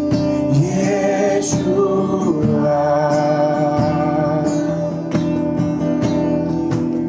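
Spanish worship song: a voice sings "Yeshua" over guitar-led accompaniment with held chords.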